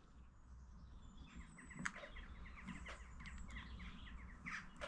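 Faint bird chirping: a quick run of short, evenly repeated chirps starting about a second in and lasting about two seconds, with a light click of small metal parts being handled in the middle and a few faint clicks near the end.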